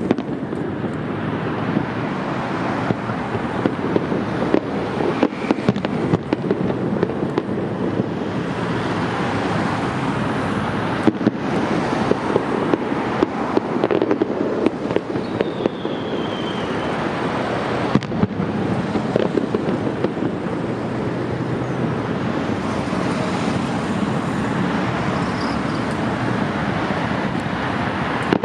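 Fireworks going off in a continuous barrage of bangs and crackles, with a short falling whistle near the middle.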